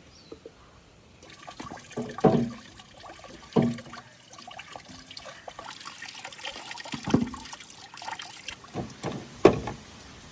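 Water splashing and trickling in a container, with several louder sloshes or knocks.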